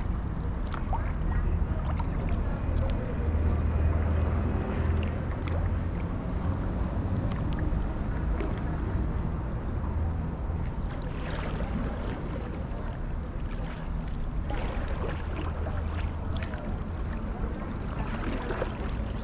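Stand-up paddleboard paddle strokes: water splashing and dripping off the blade in irregular bursts, over a steady low rumble of wind on the microphone.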